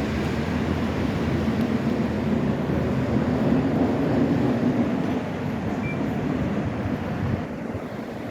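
ČKD tram running along its track, a steady rumble of wheels and running gear that swells about three to four seconds in and falls away near the end.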